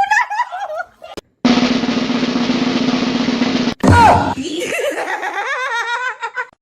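Cat meowing in short wavering calls, then, about a second and a half in, a snare-drum roll lasting a little over two seconds, followed by more wavering cries.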